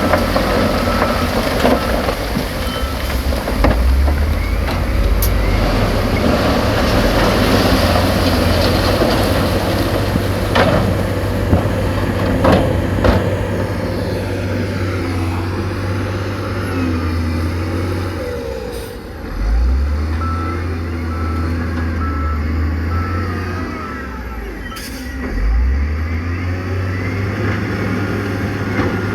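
Heavy diesel earthmoving machinery running under load, with a steady low engine drone that dips and surges twice in the second half. Sharp knocks come in the first half, and a reversing alarm beeps in a short series partway through.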